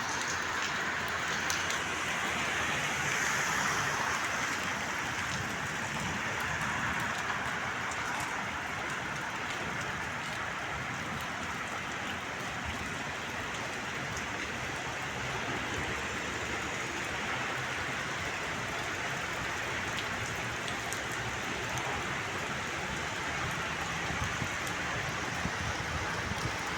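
Rain falling steadily, an even hiss of rain on surfaces.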